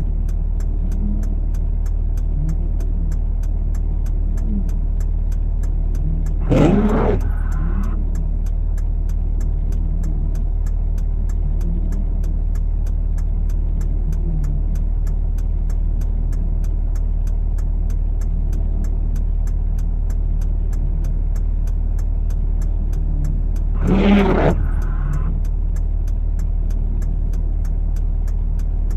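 Steady low rumble of a vehicle running, with two brief, louder noises: one about six seconds in and one near the end.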